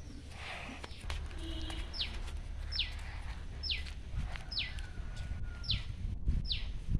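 A bird calling a short, sharp falling whistle over and over, about once a second, starting about two seconds in, over a low steady rumble.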